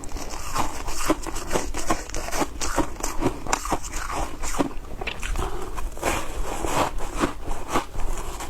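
Ice being bitten and chewed: a steady run of irregular crunches, several a second.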